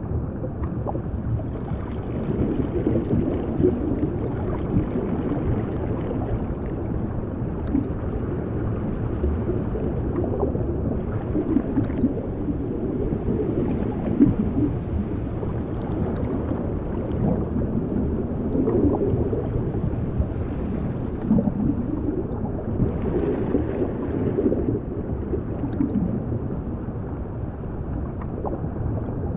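Underwater bubbling and gurgling water, muffled and low, churning without a break. Now and then it brightens briefly into louder bubbling.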